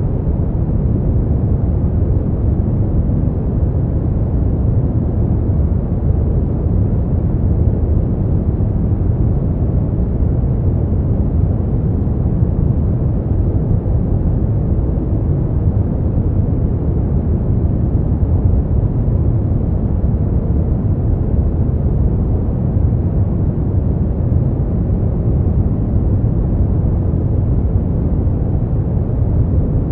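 Steady, unchanging noise from a sleep-and-relaxation noise track, deep and rumbling with little treble.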